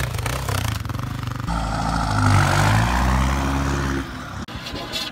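A motor vehicle's engine running, revving up about a second and a half in and dropping away near the end.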